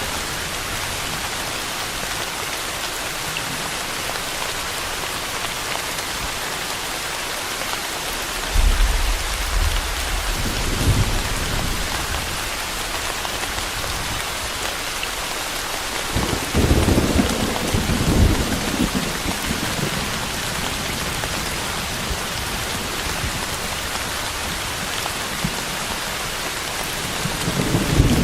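Steady rain falling, with three low rolls of thunder: one about a third of the way in, one just past halfway, and one starting near the end.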